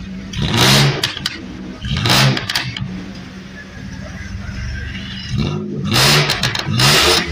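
Dodge Ram van's V6 exhaust, muffler-deleted and straight-piped with the catalytic converter kept, idling and blipped four times. Each rev rises and falls back quickly.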